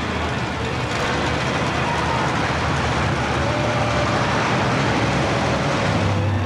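Large vehicle engine running steadily, with a dense wash of noise over it.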